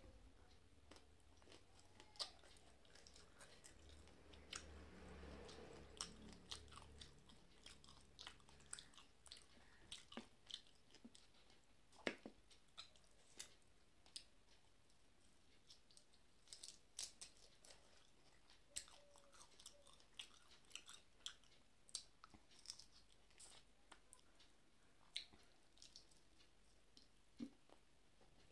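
Faint chewing with scattered sharp mouth clicks and lip smacks as a person eats chicken curry by hand.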